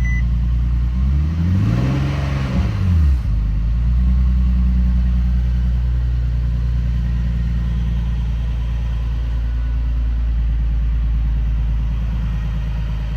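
Infiniti 3.7-litre V6 idling steadily, revved once about a second in, rising and falling back to idle within about two seconds. The engine starts but runs poorly, which the owner puts down to timing having gone off from neglected oil changes.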